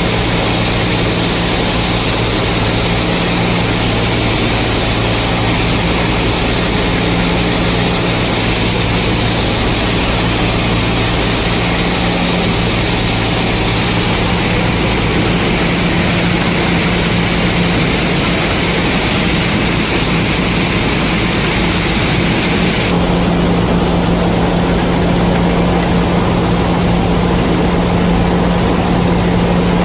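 Combine harvester running steadily while harvesting corn: a constant engine drone under the hiss of the threshing machinery. About 23 seconds in, the higher hiss drops away and the low engine hum grows stronger.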